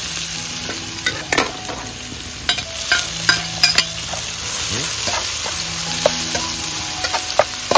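Minced garlic and chopped chili sizzling in hot oil in a black wok, with a metal spatula scraping and clicking against the pan as it is stirred.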